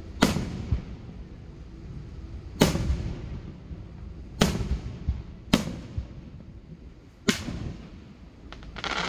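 Aerial firework shells bursting: five sharp booms spaced one to two seconds apart, each trailing off in a lingering rumble, with more noise building near the end.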